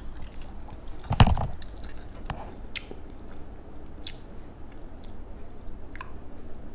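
A person chewing a mouthful of fried noodles close to a lapel microphone, with small wet mouth clicks every second or so. A brief loud vocal sound, like a short laugh or grunt, comes about a second in.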